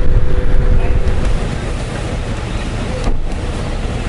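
Wind rushing over the microphone with the low road and engine rumble of a Honda Gold Wing GL1500 motorcycle riding at speed. The rush drops noticeably about a second and a half in.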